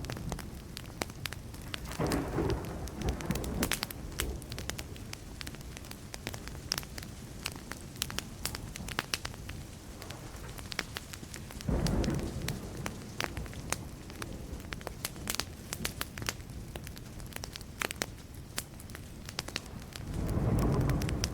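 Wood fire crackling with frequent sharp pops and snaps, over which distant thunder rumbles three times: a couple of seconds in, about halfway, and again near the end.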